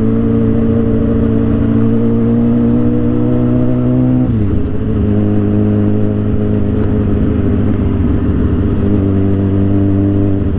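Suzuki GSX-R 750 inline-four engine running under way, its exhaust note climbing slowly in pitch, then dropping sharply about four seconds in, as on an upshift or easing off the throttle, before holding steady.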